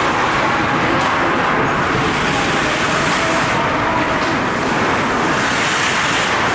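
Steady, dense background din of an ice hockey arena during play, with no single sound standing out.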